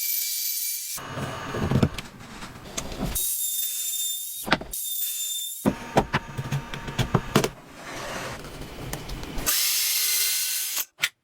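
Woodworking tool sounds on timber in a string of short, abruptly cut segments: stretches of power-tool noise, some with a steady high whine, and sawing, with a few sharp knocks in between.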